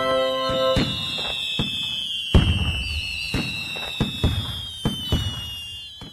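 Fireworks sound effect: several long whistles that slowly fall in pitch, with a string of sharp bangs and pops, the loudest about two seconds in.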